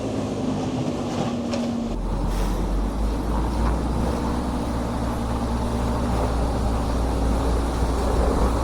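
Timber truck's diesel engine running steadily, its note shifting to a deeper, heavier drone about two seconds in.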